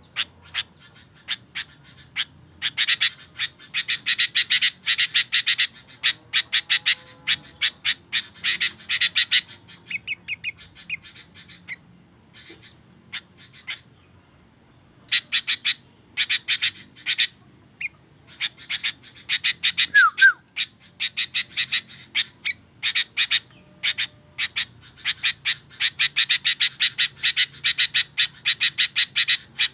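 Sooty-headed bulbul (kutilang) singing energetically in long bouts of rapid, sharp repeated notes, thinning out for a few seconds about halfway through before starting up again.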